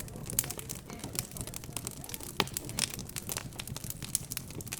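Wood fire crackling with a dense, irregular stream of small snaps and pops, one sharper pop about halfway through, over a low steady background.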